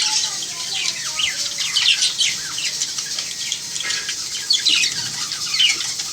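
Pet parrots chirping continuously, many short, high chirps overlapping, lots of them quick falling notes.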